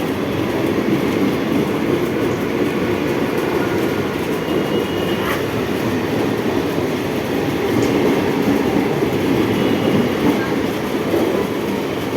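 Mumbai Western Railway EMU suburban train running past, a steady loud rumble of wheels on the rails.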